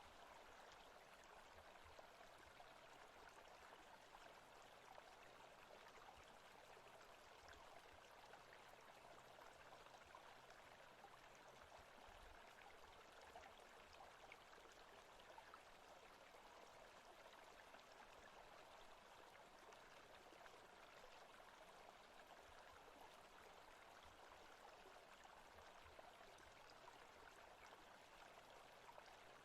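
Faint, steady forest ambience of running water like a stream, a continuous soft rushing without breaks.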